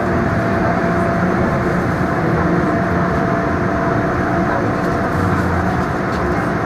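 Interior running noise of an MTR M-Train passenger car between stations: a steady rumble of wheels on rail and running gear, with a faint steady tone over it.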